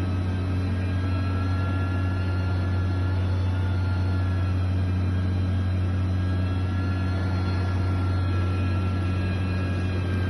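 Heavy machinery engine running at a steady speed: a constant low drone with faint thin whining tones above it that drift slightly in pitch.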